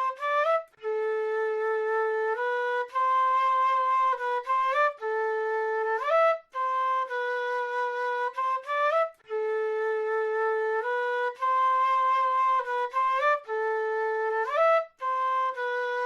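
Solo South American flute playing a slow melody of long held notes. Each phrase ends in a quick rising run of notes, and there are brief pauses between phrases.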